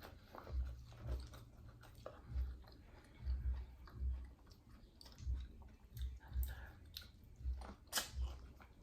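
Close-up chewing, with wet clicks and crunches, in a steady rhythm of about one to two chews a second. A sharper crunch comes near the end.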